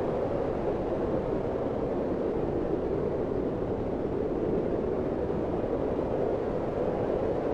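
Steady wind ambience: a low, even rush of wind with no gusts or breaks.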